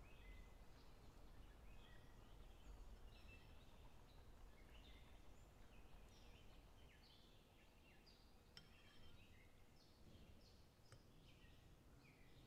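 Near silence with small birds chirping faintly throughout, many short quick chirps, and a couple of faint sharp clicks in the second half.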